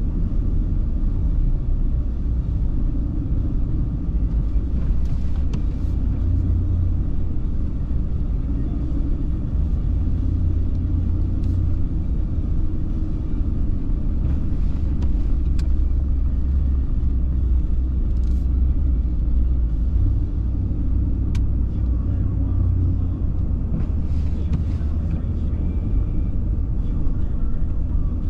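A car driving, heard as a steady low rumble of engine and road noise, with a few faint clicks now and then.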